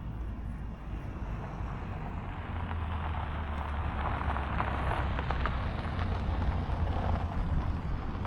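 Wind rushing over the microphone, with a low rumble, swelling gradually louder over the first half and holding.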